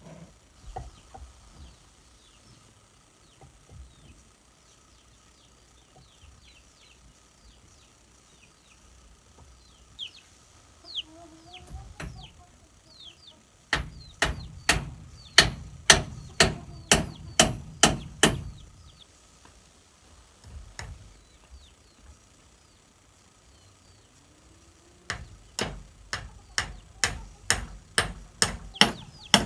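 Two runs of rapid, evenly spaced strikes of a tool on wood, about three a second, each lasting several seconds. Between them, chickens cluck and small birds chirp.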